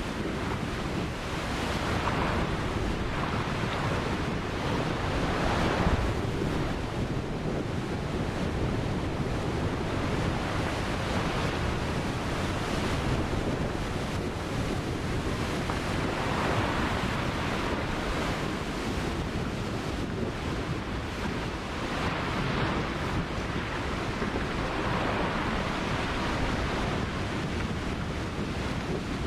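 Ocean surf: waves breaking and washing up the shore in slow, repeated swells every few seconds, with wind buffeting the microphone.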